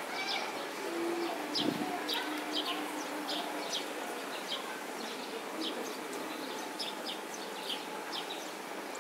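Outdoor ambience with short, high chirps repeating about once or twice a second over a steady background noise, and a brief low steady tone between about one and four seconds in.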